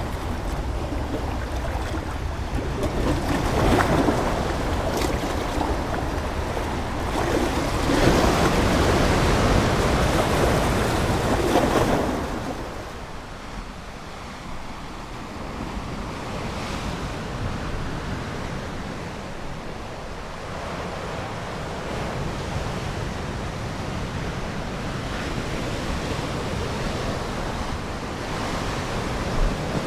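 Ocean waves breaking and washing on a shore, swelling louder in the first twelve seconds, then easing into a quieter, steady wash.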